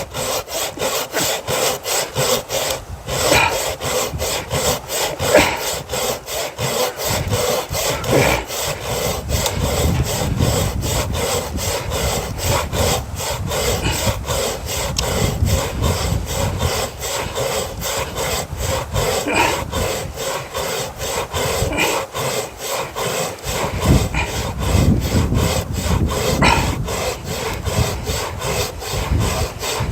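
Hand saw cutting through a firewood log with steady, rhythmic back-and-forth strokes.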